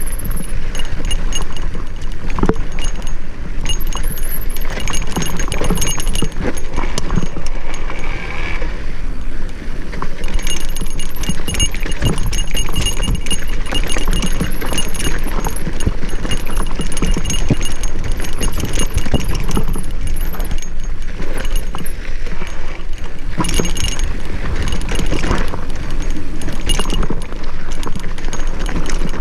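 Mountain bike clattering and rattling over a rough singletrack descent, tyres on loose dirt, with wind buffeting the microphone in a steady low rumble.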